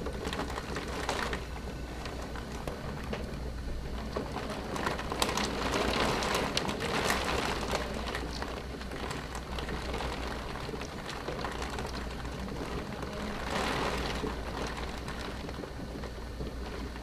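Heavy thunderstorm rain falling steadily, with many sharp drop ticks. The downpour swells louder about five seconds in and again near the end.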